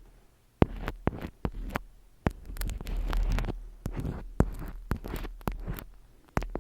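Close-miked ASMR tapping and handling of objects: a dozen or so sharp, irregular taps and clicks between stretches of soft rustling, over a low steady hum.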